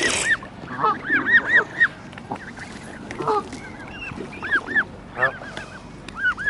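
A flock of birds, geese among them, calling all around: many short honking calls overlapping in quick succession, with a brief rush of noise right at the start.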